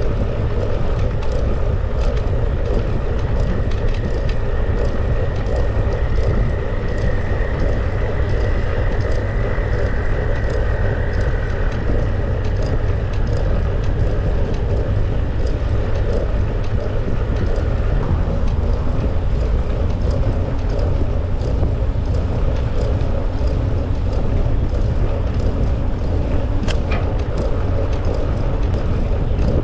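Wind buffeting the microphone and bicycle tyres rolling over a trail path during a ride, a steady low rumble peppered with small clicks and crunches.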